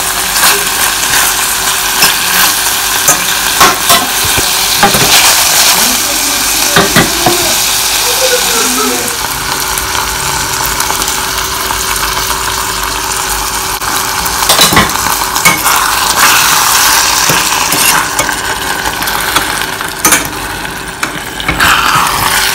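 Saltfish, onions, sweet peppers and tomatoes sizzling as they sauté in a stainless steel pot. A utensil stirs the food, scraping and clicking against the pot many times.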